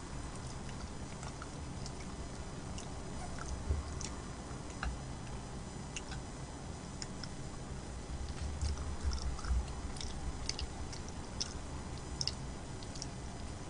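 A person chewing food close to the microphone, with scattered short wet clicks and smacks, busiest about two-thirds of the way through.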